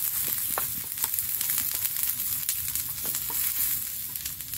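Vegetables for a stir-fry sizzling in hot oil in a pan, a steady hiss with scattered small crackles, easing slightly near the end.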